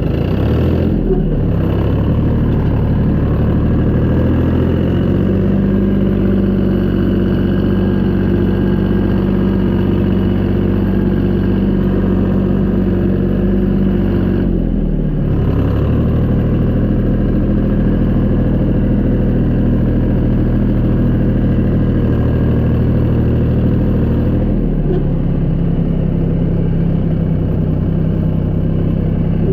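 Tractor engine running steadily at a working speed. Its pitch dips and settles at a new steady speed three times: about a second in, about halfway, and again about five seconds before the end.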